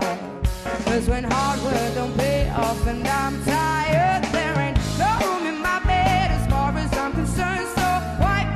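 Live band playing an upbeat soul-pop song, with bass, drums and keys, and sung notes that bend and waver over the top.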